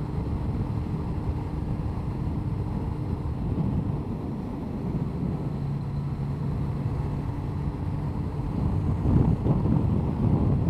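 Honda CBR1100XX Blackbird's inline-four engine running steadily under way, mixed with wind rush on the microphone. It gets briefly louder about nine seconds in.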